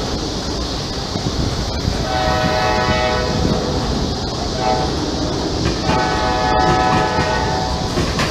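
Freight cars rolling past on jointed rail with a steady rumble and clatter. A train horn sounds two long blasts over it, the first about two seconds in and the second about six seconds in.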